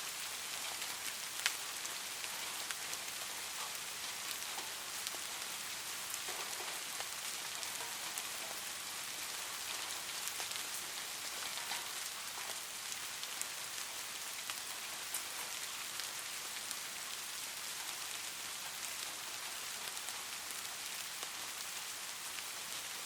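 Light rain falling steadily: an even hiss with scattered individual drops ticking through it, one sharper drop about a second and a half in.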